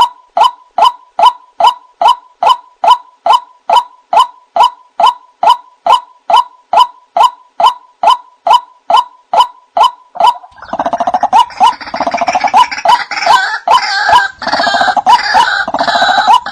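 White-breasted waterhen calling: a monotonous call repeated about twice a second, then about ten seconds in a harsher, busier gurgling chorus joins in over it.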